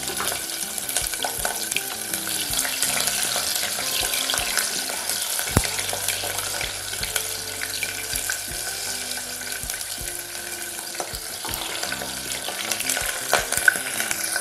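Whole shallots sizzling in hot oil, a steady frying hiss with a few sharper pops and crackles.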